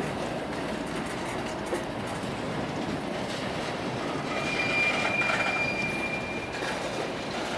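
Railroad cars rolling past on the rails, a steady rolling noise, with a thin high wheel squeal that starts a little past halfway and stops near the end.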